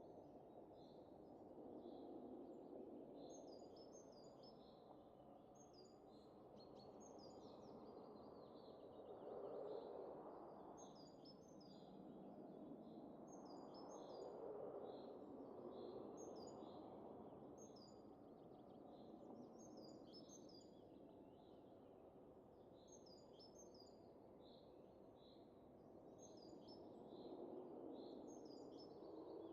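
Gentle wind blowing, rising and falling in slow gusts, with small birds chirping in quick, repeated notes throughout.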